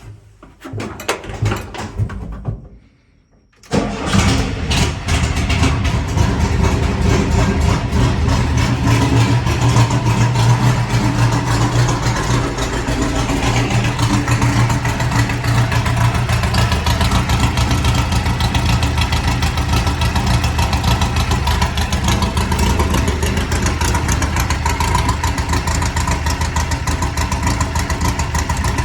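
1970 Volkswagen Beetle's air-cooled flat-four engine on a cold start: after a few short clicks and a pause, it fires about four seconds in and then runs steadily.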